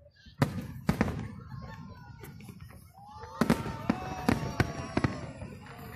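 Fireworks display: two sharp bangs about half a second apart near the start, then from about halfway a fast string of bangs.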